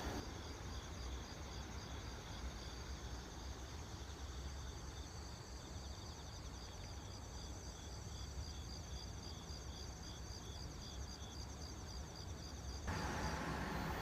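Several crickets or other night insects chirping in steady, evenly repeated pulses, over a low steady rumble. About a second before the end a louder mechanical hum cuts in suddenly.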